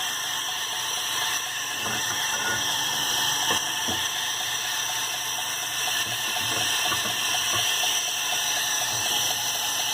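Clicks and knocks of the 2x72 belt grinder's hinged tilt mount being handled and set upright, over a steady high-pitched whine.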